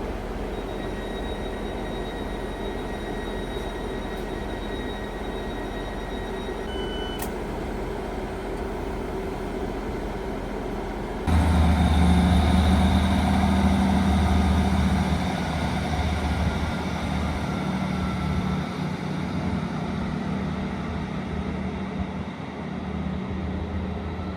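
Two-car diesel passenger train running: a steady rumble with a short beep about seven seconds in, then an abrupt switch to a much louder, deep engine rumble that gradually eases off.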